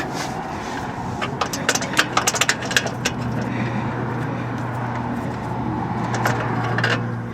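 A power tool's motor running steadily at one pitch while it turns out a control arm bolt, with metallic clicks and rattles over it; it stops near the end as the bolt comes free.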